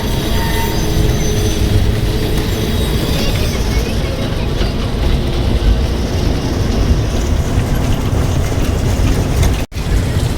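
Steady rumble of a train running along its track, with faint wheel squeal near the start. The sound cuts out for a moment near the end.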